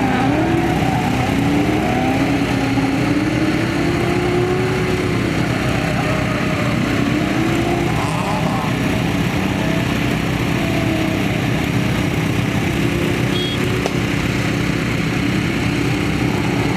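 Car engines running and revving, their pitch rising and falling slowly for the first half and then holding steadier, over a steady rush of wind on the microphone.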